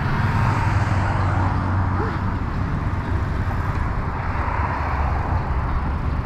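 Steady road noise while cycling along a street: a low rushing of wind on the action camera's microphone mixed with passing traffic, with no distinct events.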